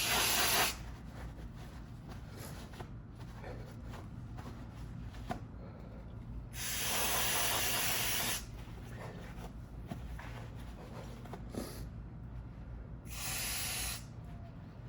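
An aerosol spray can hissing in three bursts: a short one at the start, a longer one of about two seconds midway, and a shorter one near the end, with small clicks and rubbing between.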